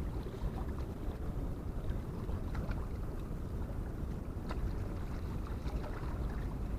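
Steady low rumble of harbour-side wind and water, with a few faint clicks scattered through.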